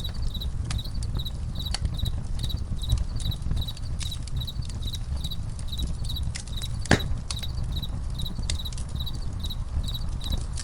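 Crickets chirping steadily, about three chirps a second, over a crackling campfire that gives off scattered sharp pops, the loudest about seven seconds in, and a low steady rumble.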